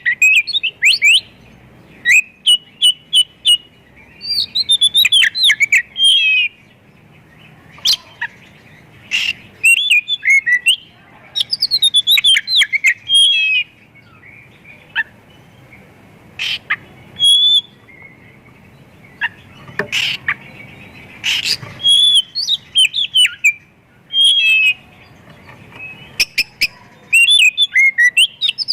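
Oriental magpie-robin (kacer) singing hard in bursts of rapid sweeping whistles and chirps packed with mimicked calls, phrase after phrase with short pauses between and a few sharp harsh notes.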